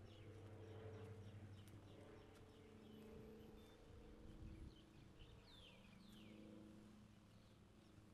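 Faint bird chirps, a few short falling calls about two-thirds of the way through, over a low steady hum.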